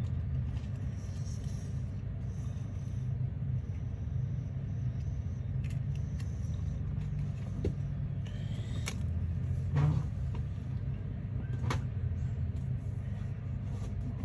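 A steady low mechanical hum or rumble, with a few light clicks and taps about halfway through.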